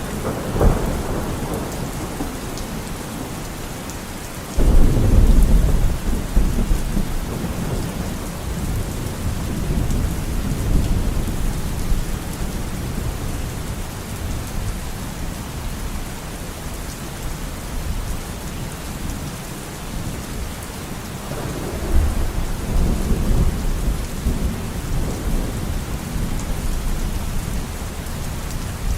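Steady rainfall with rolling thunder. A short peal comes about half a second in, a louder clap breaks about four and a half seconds in and rumbles on for several seconds, and another long rumble rolls in about 22 seconds in.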